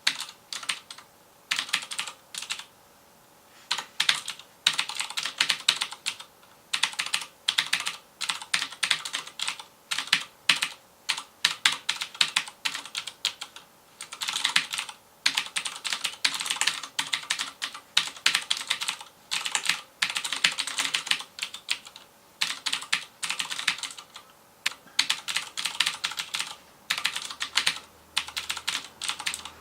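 Fast typing on a FILCO Majestouch Convertible 2 mechanical keyboard with Cherry MX Blue switches: rapid runs of crisp clicking keystrokes, broken by short pauses, with a longer pause about three seconds in.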